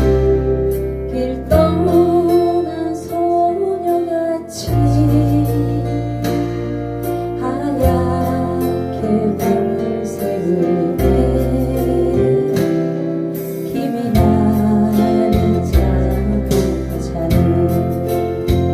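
Live acoustic guitar strumming over a backing track with long held bass notes, and a voice singing a slow ballad melody.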